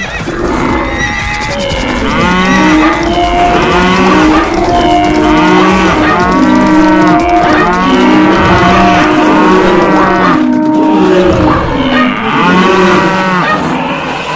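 Cattle mooing, many long calls overlapping one after another over a low rumble, with a brief pause about ten seconds in.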